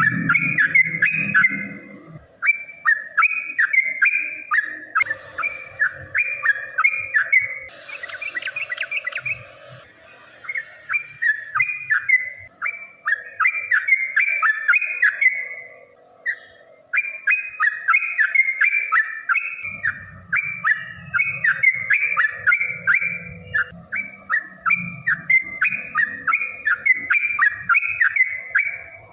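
Yellow-vented bulbul (trucukan) singing long runs of fast, bubbly chattering phrases, one after another, with short breaks about ten and sixteen seconds in.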